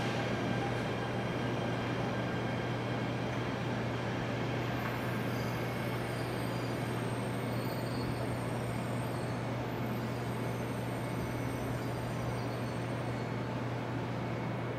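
E926 East-i inspection Shinkansen creeping into the platform and coming to a stop: steady running noise over a constant low hum, with no sudden bangs or squeals.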